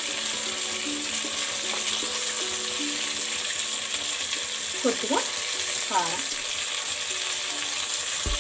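Chicken pieces, onions, potatoes and whole spices sizzling in hot oil in a pressure cooker pan: a steady frying hiss.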